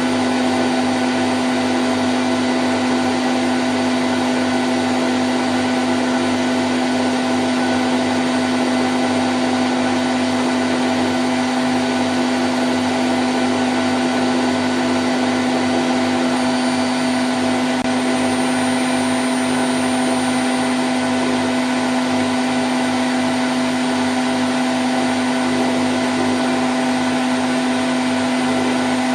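Candy Grand O' F106 washing machine in its spin cycle at 1000 rpm, running at a constant speed: a steady hum with a strong fixed tone over an even rushing noise.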